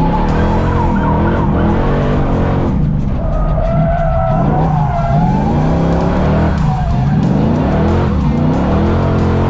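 Muscle car engines revving up and down repeatedly, with tires squealing.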